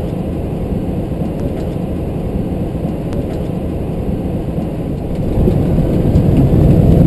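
Steady low rumble of engine and airflow noise heard inside an MD-11 cockpit during the landing, growing louder about five seconds in.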